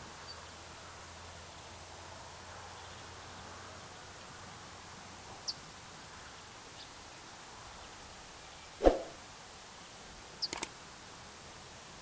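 Faint steady outdoor hiss with a couple of brief, high bird chirps. A single low thump just before nine seconds in is the loudest sound, followed about a second and a half later by three quick, sharp clicks.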